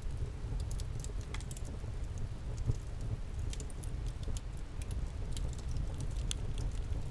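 Wood campfire crackling, with scattered sharp pops and ticks over a low steady rumble.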